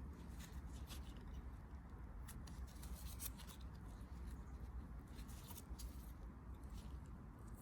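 Faint rustling and scattered small crackles, as of leaves and twigs being stepped on or brushed, over a low steady rumble.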